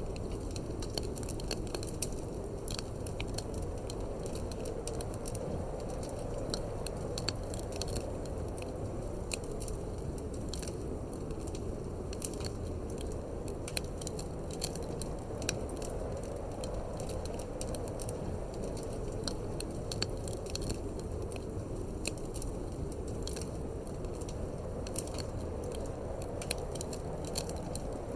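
Wood fire in a fireplace crackling, with frequent irregular sharp pops and snaps, over a steady low rush of wind.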